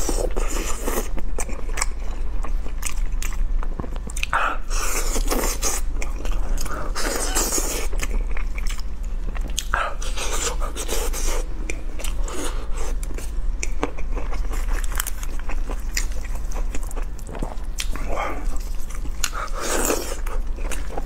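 Close-miked biting and chewing of roast chicken: wet mouth sounds with many short clicks and smacks.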